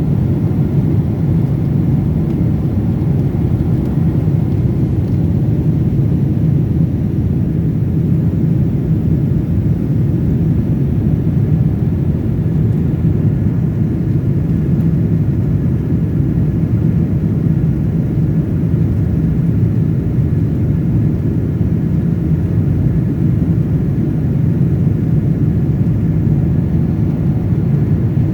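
Steady low drone of a passenger plane's cabin in flight, the engine and rushing-air noise heard from inside.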